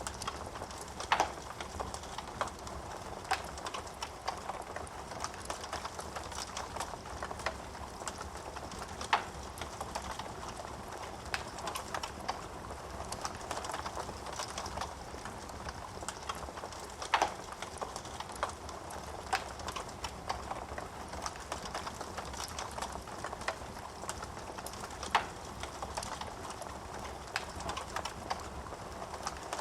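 Wood fire burning in a fireplace: a steady soft hiss of flames with frequent small crackles of burning wood and about five sharper, louder pops spread through.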